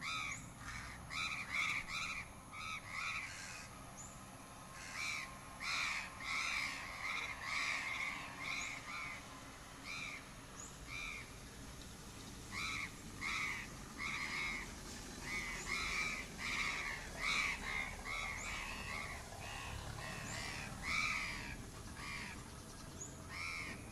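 Crows cawing, many short calls coming one after another and overlapping, as from several birds at once.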